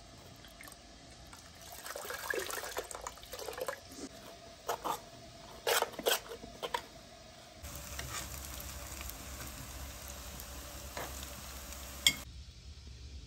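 Kitchen sounds of making potato patties: scraping and clinking of a spoon mixing grated potato in a metal bowl, with a few sharp clinks, then potato patties sizzling steadily in hot oil in a frying pan, ending in a sharp knock near the end.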